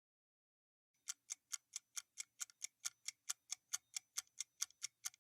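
Countdown clock-ticking sound effect: quick, even ticks at about four or five a second, starting about a second in.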